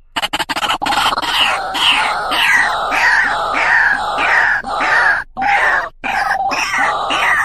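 White-breasted waterhen calling: a continuous run of repeated ruwak-ruwak calls, about two a second, broken by a few brief pauses in the second half.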